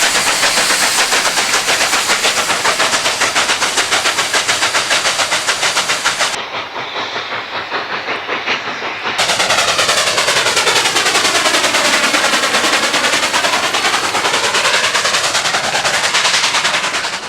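Narrow-gauge steam locomotive exhaust chuffing in rapid, even beats, about five a second. About six seconds in it turns duller, and about nine seconds in another locomotive's exhaust comes in loud and sharp again.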